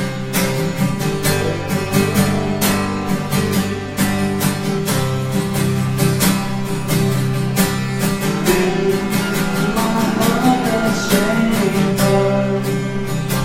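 Live worship band playing an instrumental passage: strummed acoustic guitar over held chords, with a steady beat.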